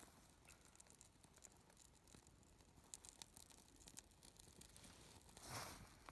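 Near silence: a small wood fire crackling faintly with scattered ticks and pops, and a soft rustle about five and a half seconds in.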